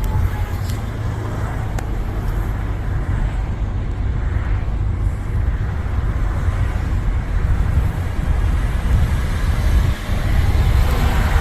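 Steady outdoor background noise: a heavy, fluttering low rumble with a hiss above it, with no single event standing out.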